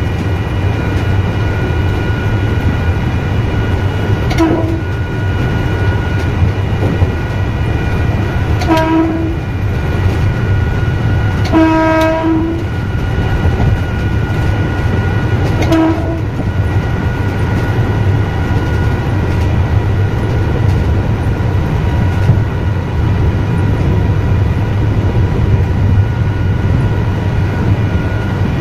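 Electric commuter train running, heard from the driver's cab: a steady low rumble with a constant high whine. The horn sounds four times: a short blast, a slightly longer one, the longest at about a second, then a short one.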